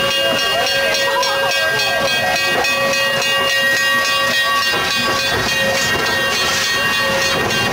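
Steam locomotive hissing loudly and steadily as it vents steam, with several steady tones held under the hiss.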